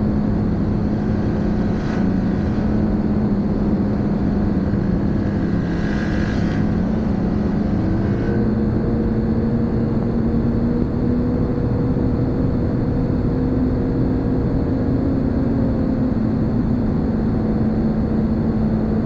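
Snowmobile engine running steadily at speed, with a rushing noise over it; its pitch rises a little about eight seconds in and holds.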